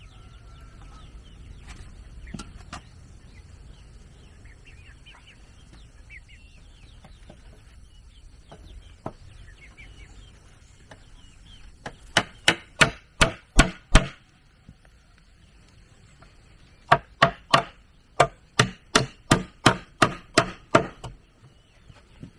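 Two quick runs of sharp blows on wood, about three strikes a second: a short run of about seven near the middle, then a longer run of about a dozen toward the end. Chickens cluck faintly in the quieter stretch before them.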